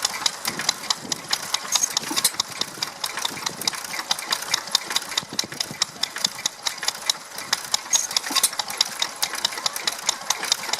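Vintage stationary engine running steadily, its valve gear and moving parts giving a regular clatter of sharp knocks, about four a second.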